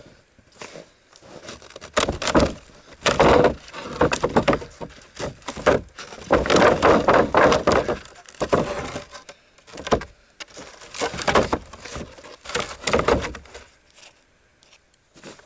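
Wooden boards being dug out of snow and handled: irregular scraping, knocking and clattering of wood, with snow being cleared off.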